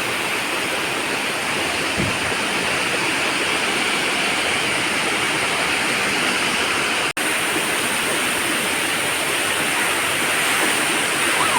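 Waterfall pouring down, a steady rush of falling water. The sound drops out for an instant about seven seconds in.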